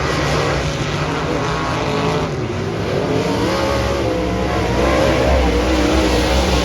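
Dirt-track modified race car engine running hard under racing load, its pitch rising and falling with the throttle. It gets a little louder about five seconds in.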